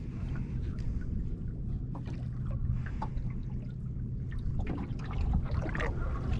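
Water lapping and trickling against the hull of a small boat at sea, over a steady low rumble with a faint hum, and a few small clicks and knocks.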